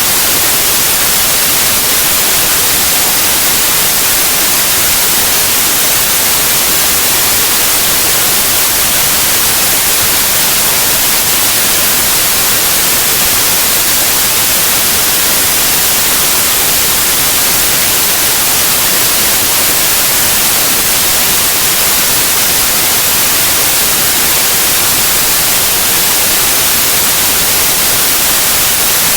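Steady white noise: an even, unbroken hiss that is strongest in the high frequencies and never changes.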